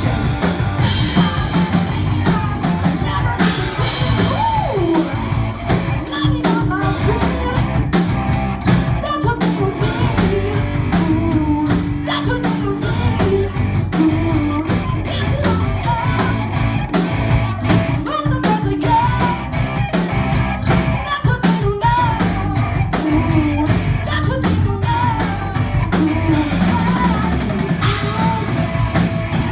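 Live metal band playing: loud distorted electric guitars, bass and a pounding drum kit, with sung vocals over the top.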